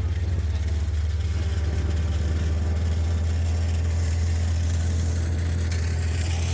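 Skid steer's diesel engine running steadily at a constant speed, a strong low hum.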